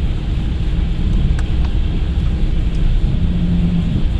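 Intercity coach running on the road, heard from inside the cabin: a steady low engine and tyre rumble, with a brief low hum standing out about three seconds in.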